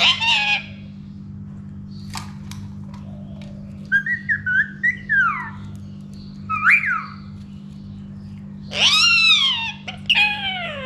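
Indian ringneck parakeet whistling: a quick run of short whistled notes, then a single rising-and-falling whistle, then two longer, louder arching calls near the end.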